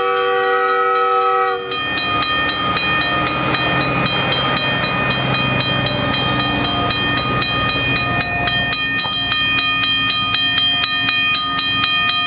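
Rail motor car's horn sounding a chord that sags in pitch and cuts off about a second and a half in. Then a rapid, even ticking over a steady ringing tone as the rail car runs.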